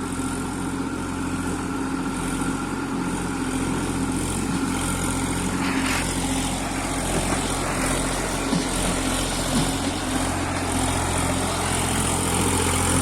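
New Holland 3037 tractor's three-cylinder diesel engine running steadily under load while it pulls a fully loaded stone trolley.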